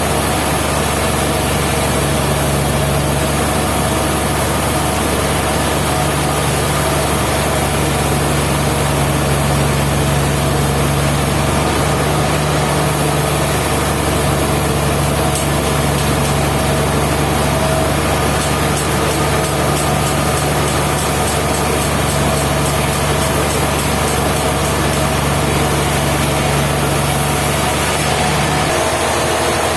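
Sawmill machinery running steadily with a constant low hum. The hum changes and its lowest tone drops away just before the end.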